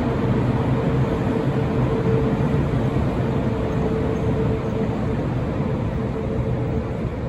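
Train running through a station: a steady rumble with a steady whine held over it, easing off slightly near the end.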